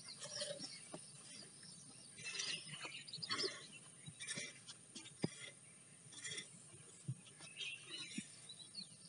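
Faint birds chirping, scattered short calls with a few soft knocks.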